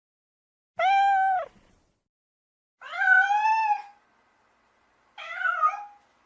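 Domestic cat meowing three times, each meow under a second long with a rising-then-falling pitch; the last meow is shorter and lower.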